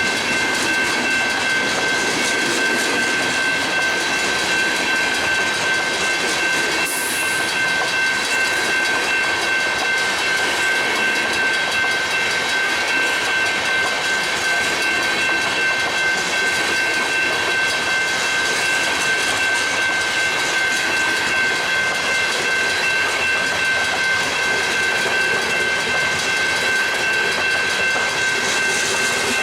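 Freight train cars rolling steadily past on the track, with a continuous high-pitched whine over the rumble of the wheels.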